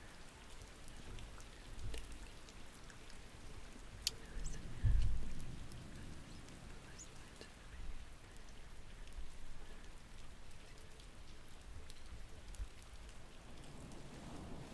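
Steady rain from a thunderstorm soundscape, with a sharp click about four seconds in and a short low rumble of thunder about a second later.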